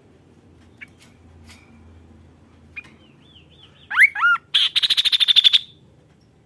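Kaso-kaso bird calling: a few faint short notes, then about four seconds in two loud up-slurred whistles followed by a harsh, rapid rattling chatter of about a dozen strokes lasting roughly a second.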